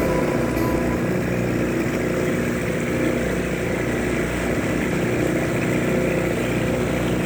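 Boat motor running steadily at an even speed.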